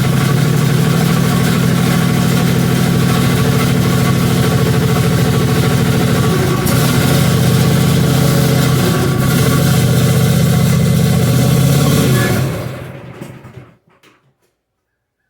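Craftsman Z6800 zero-turn mower engine running steadily just after a start, then dying away and stalling near the end. The stall comes straight after starting; the cause was later found to be a bypassed seat-safety switch with its wires tied together.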